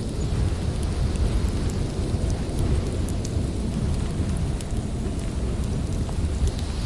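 Strong wind rumbling and buffeting in the low end, with scattered small crackles from a wood fire.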